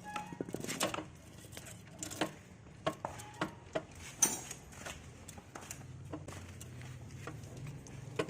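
Scattered light knocks and clinks of metal engine parts and tools being handled, coming irregularly a few times a second at most, over a low steady hum.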